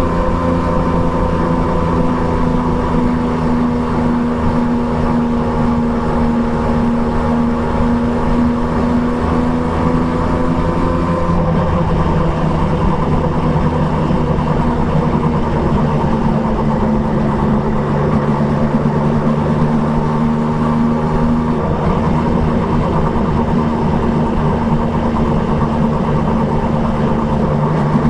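Triumph Trident 660's three-cylinder engine with an Akrapovic exhaust, running at a steady cruise under a rider's throttle. Its note drops a little about eleven seconds in, then holds steady again, over a constant rush of noise.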